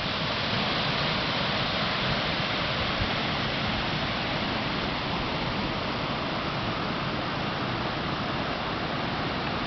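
Steady rushing water, a stream or river running high after heavy rains.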